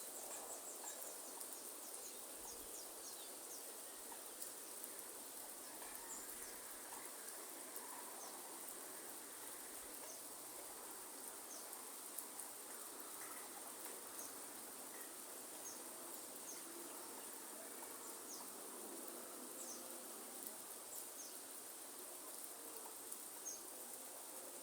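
Faint rainforest ambience in light rain: a soft, even hiss of rain with a steady high-pitched insect drone and scattered short, high ticks throughout.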